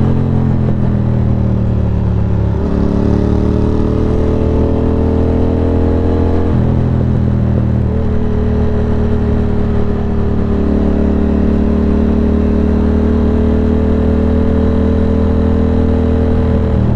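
Ducati Monster 620's air-cooled L-twin engine pulling along at cruising speed. Its note changes abruptly about two and a half and six and a half seconds in, and otherwise holds steady or climbs slowly with the throttle.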